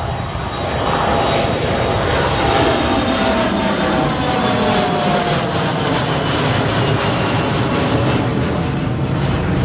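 Jet airliner departing and passing close by, its engines running loud at takeoff power; the engine whine glides down in pitch as it goes past, over a heavy low rumble.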